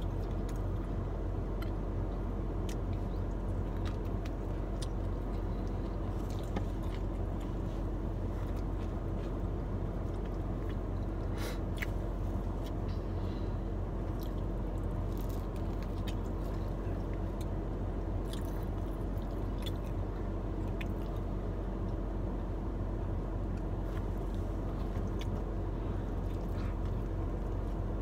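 Someone chewing and biting into a sandwich close to the microphone, with scattered small clicks and crinkles, over a steady low hum of a car cabin.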